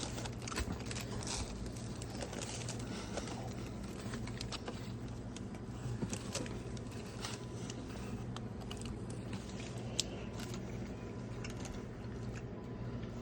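A person biting into and chewing a sandwich, with scattered small crackles and clicks, over a steady low hum.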